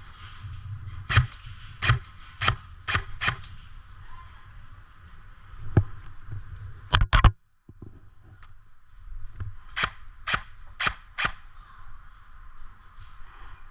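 Airsoft guns firing single shots: five sharp cracks spaced about half a second apart in the first few seconds, a louder quick cluster about seven seconds in that cuts off abruptly, then four more shots about ten seconds in.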